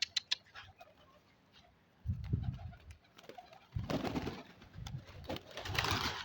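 Domestic pigeons cooing, several low coos in a row, with a couple of short bursts of rustling noise around them.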